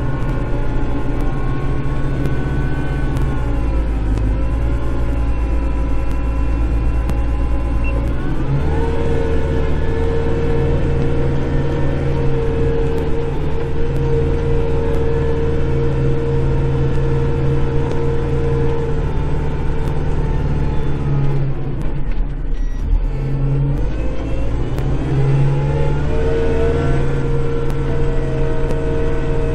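Kubota Grand L5740 tractor's diesel engine running under load, heard from inside the cab while it pushes snow with the front blade. The engine note steps up about eight seconds in, sags briefly a little past twenty seconds, then climbs again.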